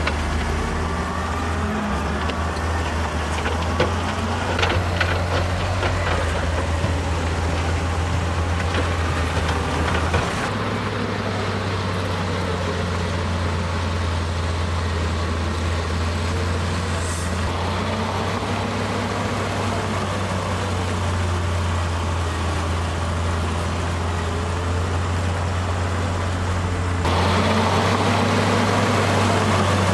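Diesel engine of heavy earthmoving machinery running steadily, with a few knocks in the first several seconds. The sound changes abruptly about a third of the way in and again near the end.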